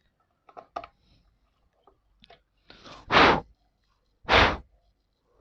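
Two hard blows of breath, a little over a second apart, blown into a stalled motorcycle's fuel system to clear air suspected in the fuel line, after a few faint clicks.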